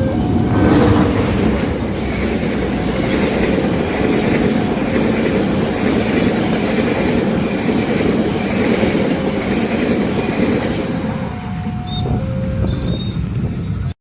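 A train passing at speed close by, a steady rumble of wheels on rails for about ten seconds. The level crossing's electronic warning alarm, alternating between two tones, sounds again near the end as the train clears.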